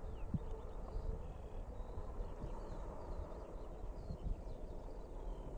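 Small birds chirping in short, repeated calls over a low, steady rumble, with a few soft low thumps.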